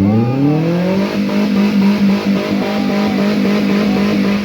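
Off-road 4x4's engine revving: the revs climb over about a second, then hold high and steady under load.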